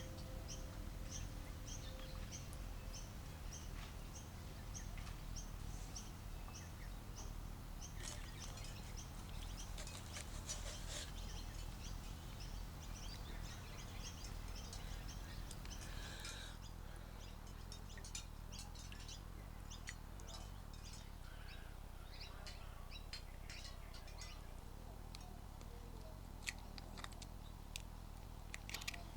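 Birds chirping. One bird repeats a short, high chirp about twice a second for the first several seconds, then scattered chirps from other birds continue faintly over a low steady background.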